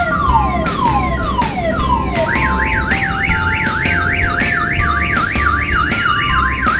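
Electronic music and sound effects from an odong-odong children's ride loudspeaker: a run of falling whistle tones about three a second, then, about two seconds in, a fast up-and-down warbling siren-like tone, over a pulsing low beat.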